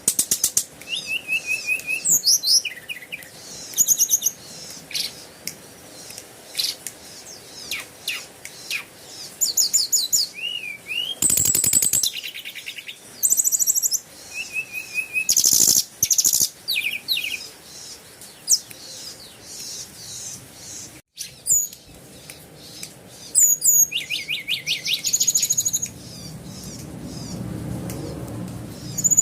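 Small birds chirping and singing close by, with fast trills and quick runs of repeated high notes one after another. A low hum comes in near the end.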